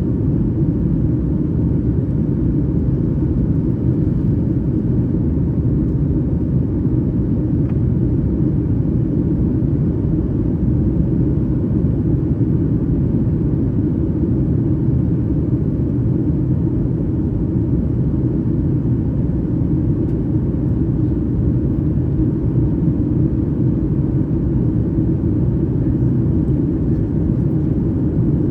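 Steady low rumble of a Boeing 737 MAX 8's CFM LEAP-1B jet engines, heard inside the passenger cabin.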